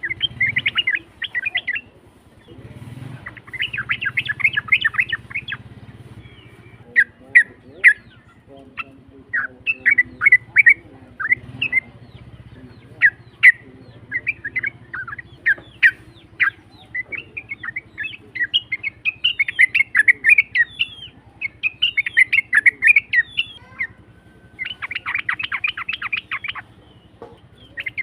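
Olive-winged bulbul (cucak trucuk) singing: loud, rough, rapid chattering phrases, repeated in bursts every second or two, over a faint low hum.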